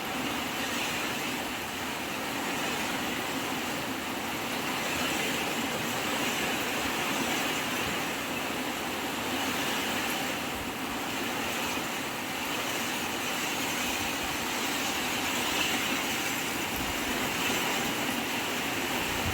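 Strong typhoon wind blowing, a steady rushing noise with slight swells in level.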